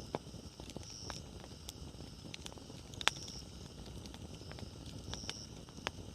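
Wood campfire crackling: scattered sharp pops and snaps over a low steady hiss of burning, the loudest pop about three seconds in.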